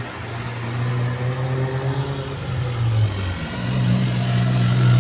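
Heavy truck's diesel engine pulling up a steep climb. The engine note drops and breaks off about three seconds in, then picks up again higher and louder.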